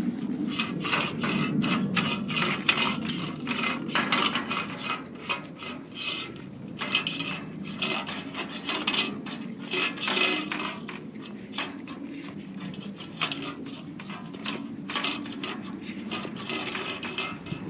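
Doberman licking up the last of a raw chicken meal, with wet tongue clicks and a steady rubbing, scraping sound of tongue and muzzle against the feeding surface.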